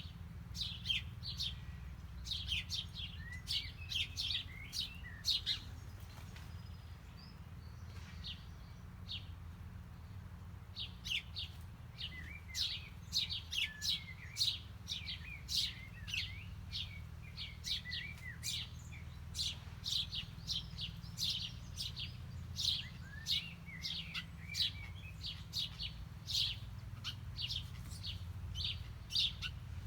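Small birds chirping: many short, rapid chirps from several birds, thinning to a lull about a quarter of the way in, then picking up again. A steady low rumble runs underneath.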